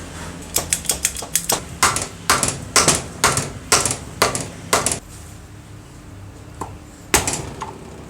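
A quick run of sharp taps or knocks over the first five seconds, several a second, then two more near the end.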